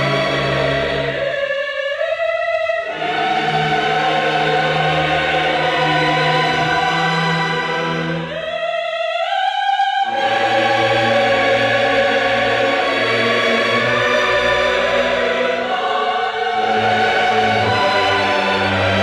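Choral music: a choir singing long held chords over an orchestral backing, with the bass dropping out briefly twice.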